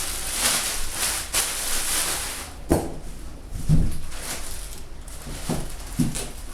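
Packaging being handled while unboxing: a rustling hiss for the first couple of seconds, then several dull thumps and knocks as parts are moved and set down.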